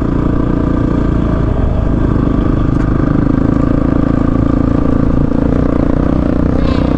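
Single-cylinder dual-sport motorcycle engine running steadily on a dirt trail, with a brief dip and recovery in engine speed about a second and a half in.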